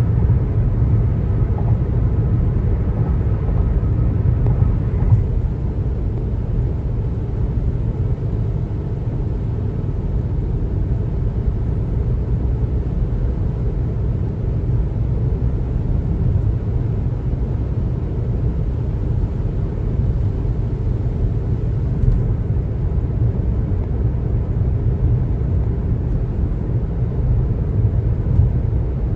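Steady low road and tyre noise of a car driving at highway speed.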